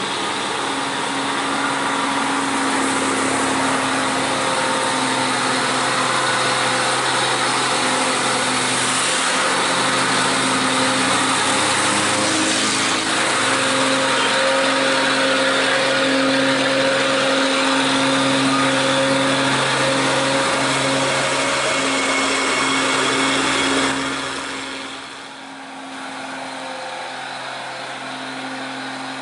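Heavy truck diesel engine running steadily under load, typical of a loaded truck pulling up a steep climb. About 25 seconds in it drops to a quieter, steady hum.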